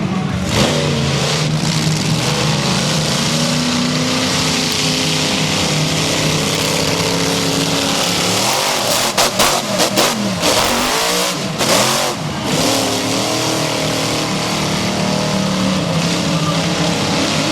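Monster truck engine revving up and down over a dense wash of arena noise, with a cluster of sharp bangs about nine to twelve seconds in.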